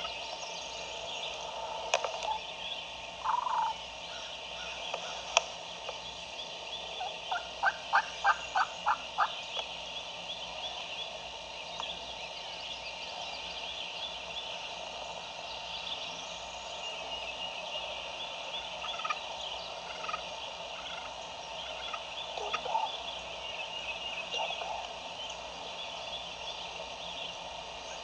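Wild turkey gobbling faintly, barely audible over a steady background of songbird chatter. About eight seconds in, a quick run of about eight evenly spaced notes is the loudest sound.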